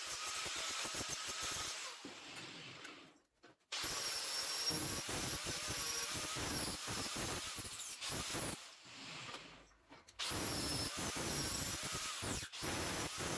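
A workshop power tool running in bursts of a few seconds, stopping briefly between them.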